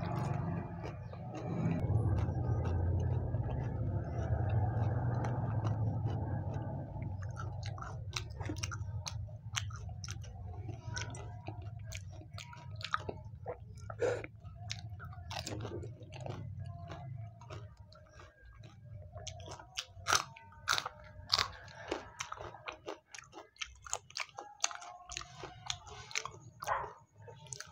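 Close-miked chewing and crunching of pani puri with green chillies: for the first several seconds loud, dense munching of a full mouth, then sparser sharp crunches and wet mouth clicks.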